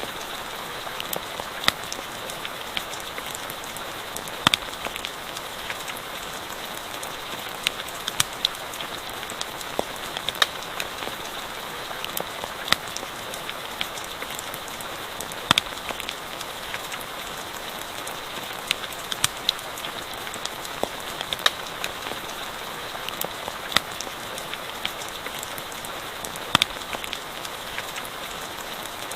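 Steady rain hiss with irregular sharp pops and crackles from a campfire scattered through it.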